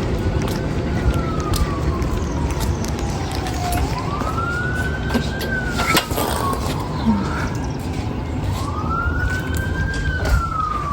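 Emergency vehicle siren on a slow wail: each cycle rises quickly in pitch, then falls away slowly over a few seconds, and the wail goes round about twice, over a steady low rumble.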